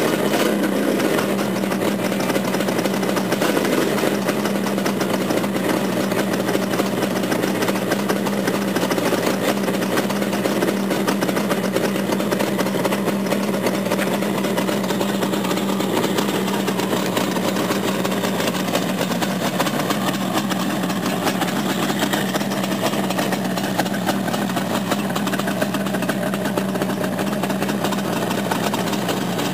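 Kawasaki H1A's 500 cc air-cooled two-stroke triple catching at the very start and then idling steadily on its first start.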